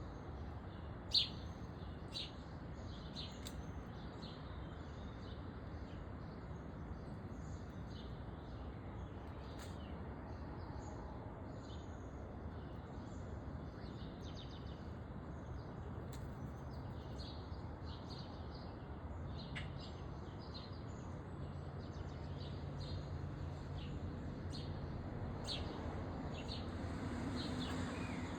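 Small backyard songbirds chirping in short, scattered calls over a steady low background rumble. A sharp click sounds about a second in, and the low rumble swells near the end.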